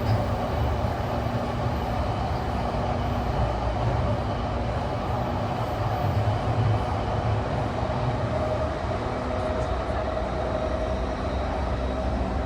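Running noise inside the motor car of a JR East E235-1000 series electric train, MoHa E234-1003, fitted with a Mitsubishi full-SiC VVVF inverter, travelling at speed: a steady low rumble of wheels on rail. A faint steady tone comes in about two-thirds of the way through.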